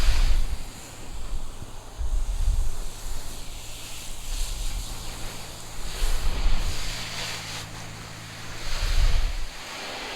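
Pressure washer spraying water onto a vehicle's body, a steady hiss over a low, even hum, with uneven low rumbles of wind on the microphone that stop near the end.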